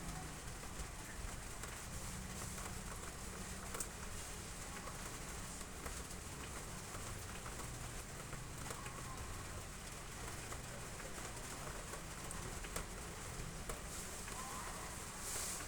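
Heavy rain falling steadily, with scattered sharp drips and taps. A dove coos low in the background.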